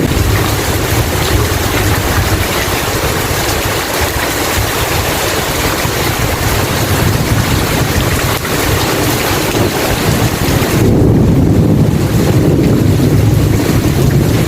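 Steady rain hiss over a deep rolling rumble of thunder; about eleven seconds in the rumble swells and the hiss dims.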